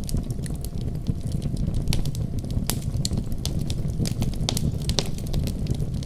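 Wood fire crackling in a fireplace, with frequent irregular sharp pops and snaps, over a steady deep rumble of a winter storm.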